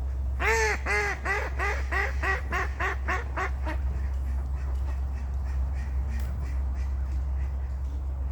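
A duck quacking in a quick series of about ten calls, roughly three a second, that fade as the series goes on. A steady low hum runs underneath.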